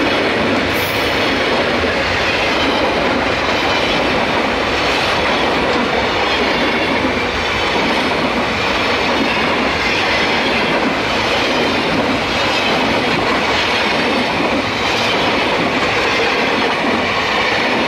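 Steam-hauled train of South African Railways running on the track, a loud, steady rumble and clatter of wheels over the rails.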